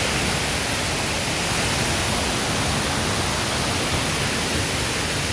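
Steady rushing of fast-flowing mountain water, an even hiss with no breaks.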